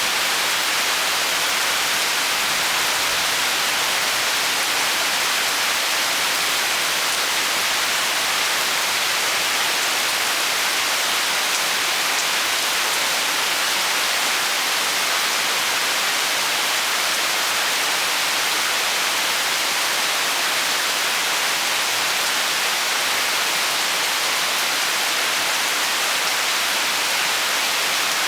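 Heavy rain falling steadily in a rainstorm, a dense, even hiss with no let-up.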